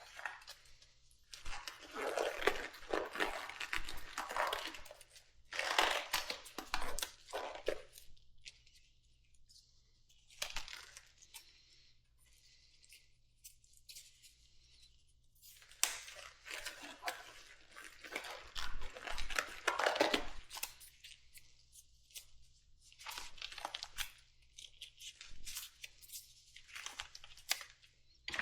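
Hands-on work on a motorcycle being torn down: irregular bursts of rustling and tearing, a second or two each with pauses between, mixed with small clicks and knocks.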